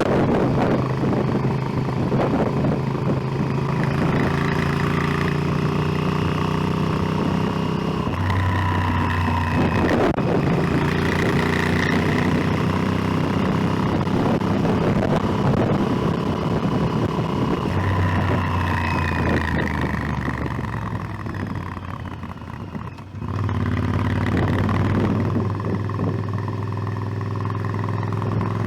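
Motorcycle engine running under way, its note stepping to a new pitch a few times. About three quarters of the way through it eases off briefly, then pulls again.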